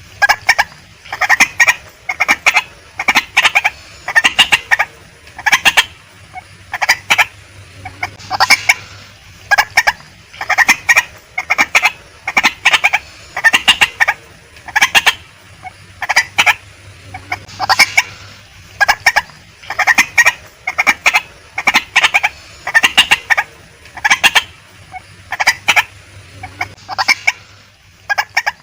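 Female white-breasted waterhen calling: short, sharp clucking notes in quick clusters, repeated about once a second with brief pauses.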